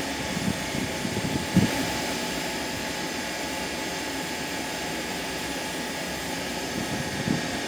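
Steady rushing hum of a fan or blower, with a few light knocks about a second and a half in and near the end.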